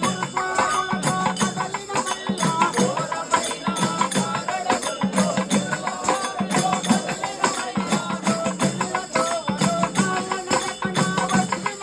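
Devotional bhajan music: voices singing a melody over dense jingling, clicking percussion and a pulsing drum beat.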